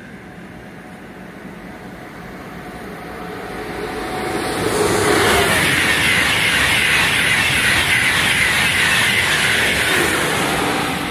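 Frecciarossa high-speed electric train passing at speed: a rush of noise that builds over the first few seconds, stays loud and steady as the train goes by, and begins to fade near the end.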